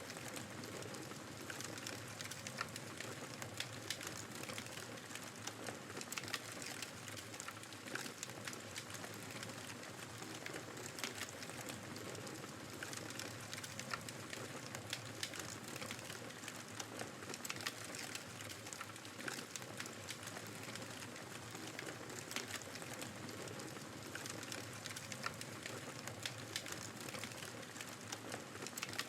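Wood fire crackling, with many small sharp pops, over the steady hiss of blizzard wind.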